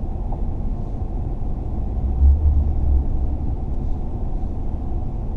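Steady low rumble of a car moving slowly, with a louder low rumble for about a second starting about two seconds in.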